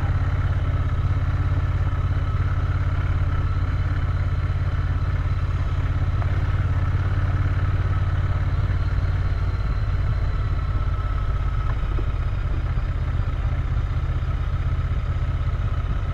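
Royal Enfield Interceptor 650's parallel-twin engine running steadily at an even cruising pace, its note holding constant.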